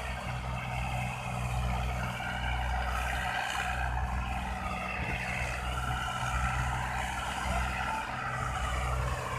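Diesel tractor engines running steadily under heavy load while hauling a loaded sugarcane trolley.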